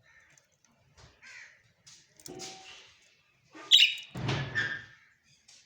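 A parrot giving a run of short, harsh squawks and scratchy chatter, the loudest pair a little under four seconds in.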